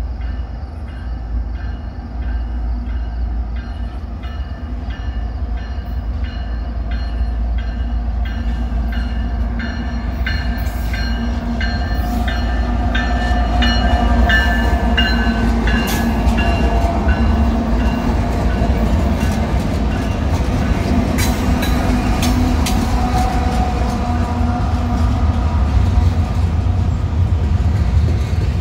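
A CN diesel-hauled double-stack freight train approaching and passing close by. A low rumble builds as the locomotives come nearer and peaks about halfway through as they pass, with a few high steady tones dipping slightly in pitch. The container cars then roll by with a steady rumble and wheel clicks over the rail joints.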